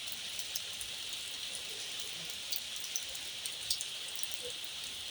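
Steady light rain hissing, with scattered individual drops ticking sharply on nearby surfaces.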